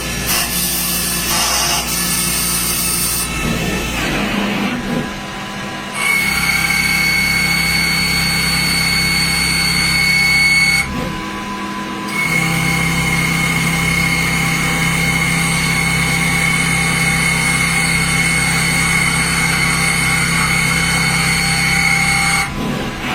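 CNC lathe running while knurling a workpiece, with a steady high-pitched machine whine. The sound drops away for about a second, around eleven seconds in.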